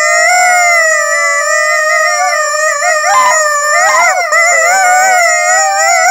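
Two rubber squeaky chickens blown at once with long held breaths, giving a loud, continuous, high reedy squeal of two overlapping tones. The pitch wavers and briefly breaks up about three to four seconds in.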